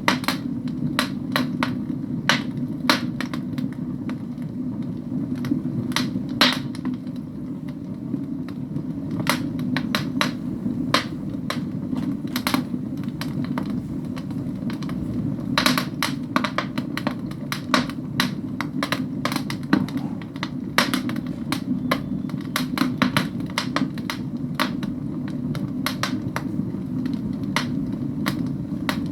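Wood fire burning in a fireplace, crackling: irregular sharp pops and snaps, some much louder than others, over a steady low rush.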